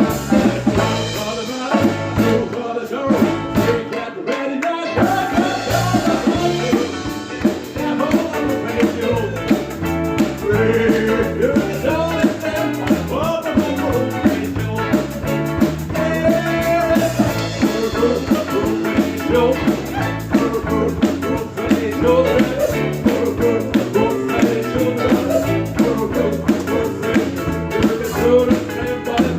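A live band playing upbeat rock-style music with a drum kit keeping a steady beat and a wavering melodic lead line on top.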